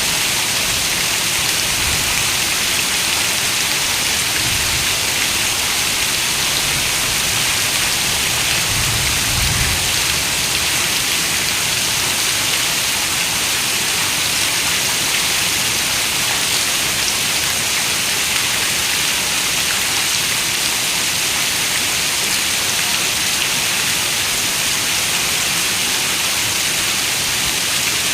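Heavy rain falling on a window pane: a steady, even hiss of dense raindrops with no let-up. A faint low rumble comes and goes in the first ten seconds, strongest about nine seconds in.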